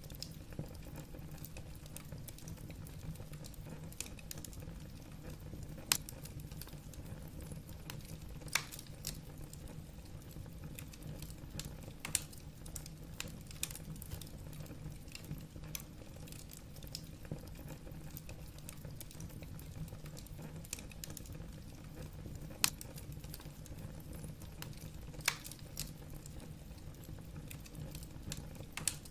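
Wood fire burning in a fireplace: a steady low rumble of the flames with irregular crackles and sharp pops from the logs, a few louder snaps scattered through.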